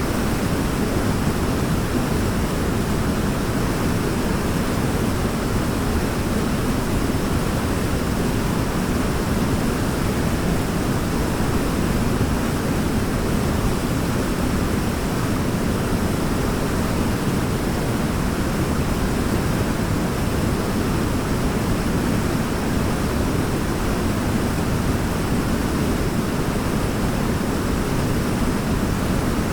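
Waterfall: water falling and splashing in a steady, even rush, heaviest in the low range, with no change or break.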